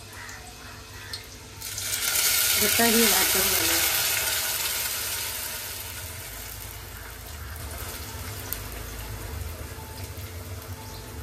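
Wet ground coconut-and-chilli masala paste hitting hot oil in a steel pan: a sudden loud sizzle about two seconds in that slowly dies down to a steadier frying hiss.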